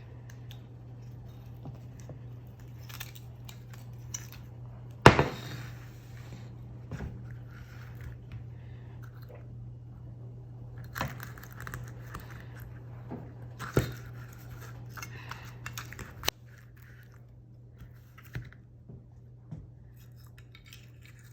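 Cutting and scraping at a prickly pear cactus pad to take off its spines: scattered small clicks, scrapes and tearing noises, with a sharp knock about five seconds in.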